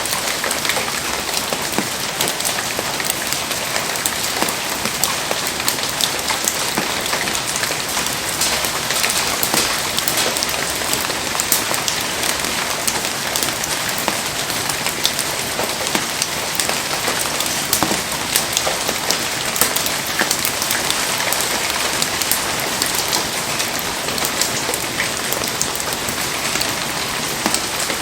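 Heavy rain falling steadily, a dense, unbroken patter of countless drops.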